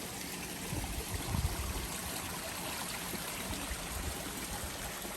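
Steady rush of a mountain stream, runoff water running downhill, with a few low thumps about a second and a half in.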